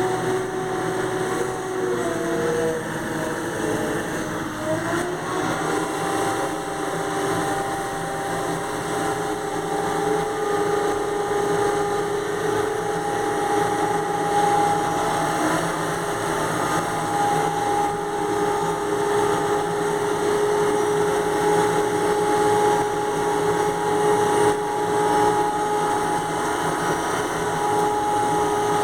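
A vehicle engine running with a steady hum whose pitch dips and rises again a few seconds in, then holds steady, over a constant hiss.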